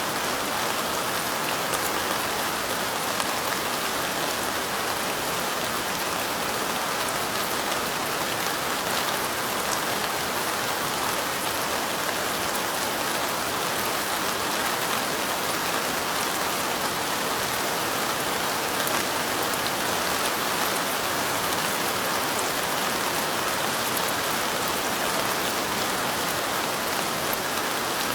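Steady light rain, falling evenly throughout, with faint ticks of single drops in the hiss.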